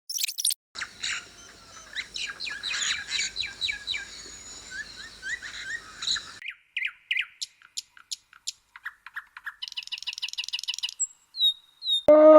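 Birds chirping: many short, high chirps in quick succession, then scattered single chirps and a rapid trill. A lower, drawn-out animal call begins just at the end.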